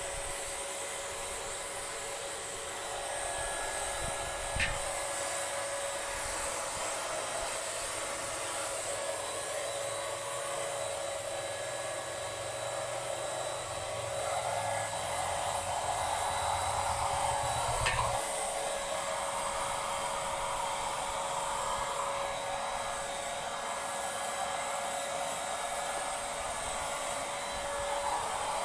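Handheld Paint Zoom electric paint sprayer running steadily: a constant motor whine over an airy hiss. Two short clicks come through, about five seconds in and again about eighteen seconds in.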